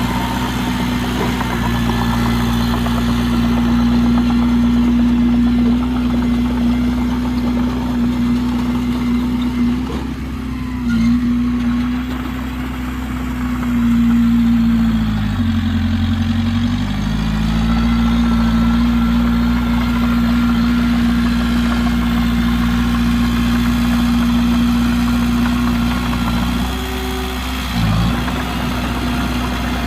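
Heavy diesel engine of earthmoving machinery running steadily. Its pitch dips briefly about a third of the way in, drops deeper for a couple of seconds around the middle and recovers, and dips once more near the end.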